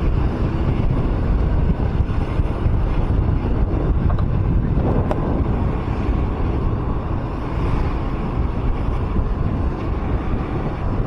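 Wind noise on the microphone over the road and traffic noise of a moving vehicle in city traffic, with a single short click about five seconds in.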